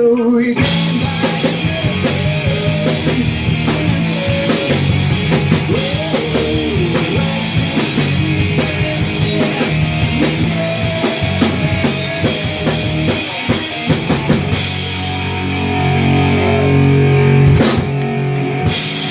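Live punk rock band playing loud: drum kit and distorted electric guitars, with a louder held passage near the end.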